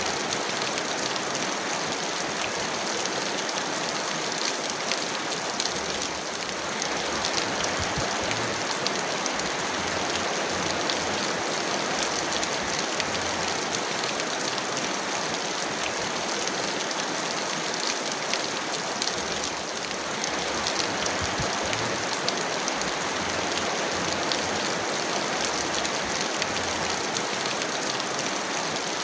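Heavy rain falling steadily: a dense, even patter of drops, easing very slightly twice.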